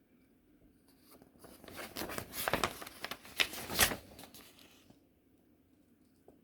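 Model kit packaging being crinkled and torn open by hand: a dense run of crackles for about four seconds, loudest near the middle.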